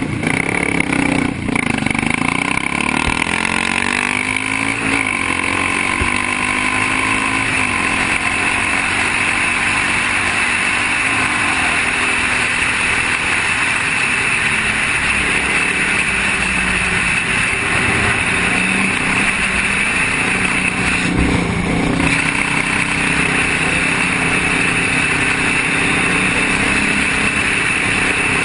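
Motorcycle and other vehicle engines running, under a steady wash of traffic noise. Engine pitch slides up and down as vehicles go by, most clearly in the first few seconds and again about two-thirds of the way through.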